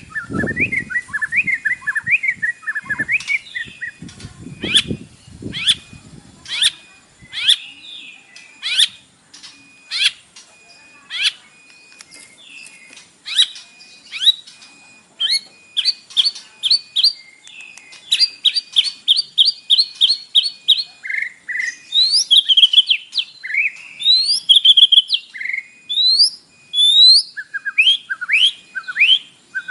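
White-rumped shama (murai batu) singing: sharp, quickly rising whistled notes, spaced out at first, then breaking into fast runs of repeated notes in the second half.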